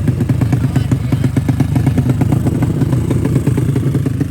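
Small four-stroke race motorcycle engine running steadily, its exhaust giving a rapid, even pulsing.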